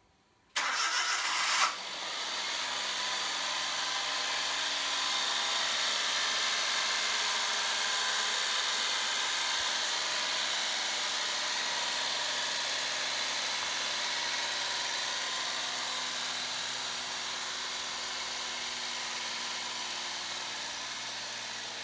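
Swapped Suzuki K6A turbo three-cylinder engine being started: about a second of loud cranking on the starter, then it catches and runs steadily at idle. The idle eases off slightly near the end.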